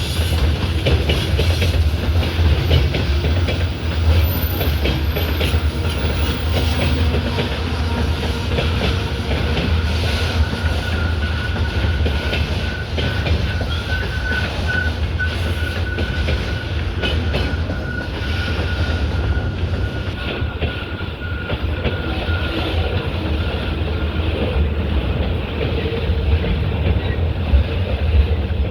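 Freight train behind a VL85 electric locomotive running on the rails, its wheels clattering over the rail joints with a steady low rumble. A faint thin squeal sounds through the middle stretch.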